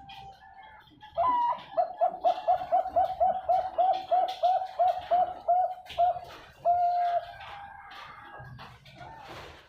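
Zebra dove (perkutut, a Bangkok-bred song dove) singing. A higher opening note is followed by a quick run of about fourteen rolling coos, roughly three a second, which ends on one longer held note.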